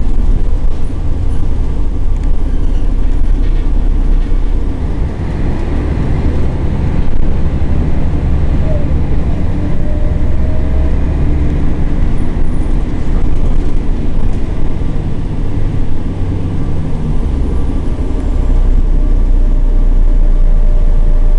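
Scania L113CRL bus's 11-litre straight-six diesel engine running steadily as the bus drives, a loud, deep drone.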